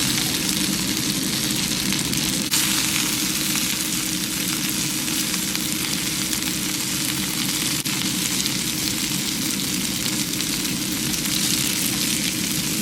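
Chicken dumplings (potstickers) sizzling steadily in oil in a non-stick pan. The steaming water has evaporated, so they are frying crisp.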